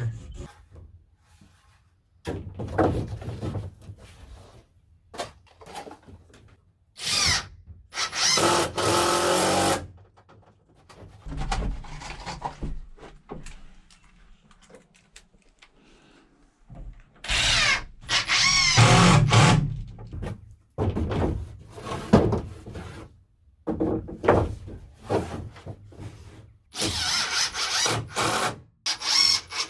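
Power drill driving screws into wooden planks in several runs of two or three seconds, its whine bending up and down, with short knocks in between.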